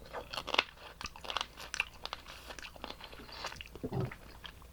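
Close-miked eating: a string of small crunches, cracks and wet mouth clicks from biting into and chewing garlic blue crab.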